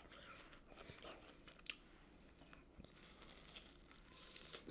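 Faint close-up chewing of a fried chicken sandwich, with a few soft crunches and mouth clicks.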